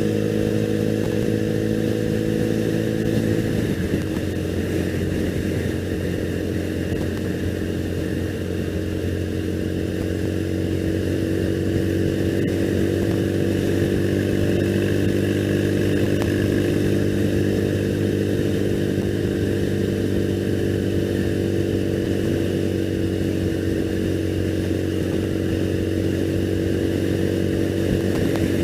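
A 2001 Triumph Bonneville's 790 cc parallel-twin engine running under way at a steady cruising speed, with a continuous rush of air and road. Its note changes about three and a half seconds in, then holds steady and climbs a little from about eleven seconds on.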